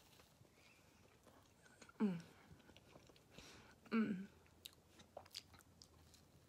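A person chewing and biting pizza close to the microphone, with faint wet mouth clicks and smacks. Two short closed-mouth "mm" hums, each falling in pitch, come about two and four seconds in.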